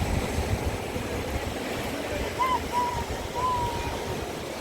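Pacific Ocean surf washing onto the beach, with wind buffeting the microphone as a steady low rumble. A few faint short chirps come through about halfway through.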